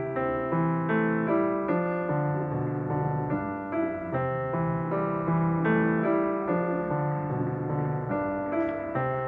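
Background piano music: a steady run of notes over held low bass notes.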